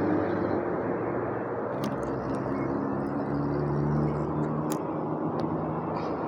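Steady motor-vehicle engine hum and rumble, with a few faint clicks.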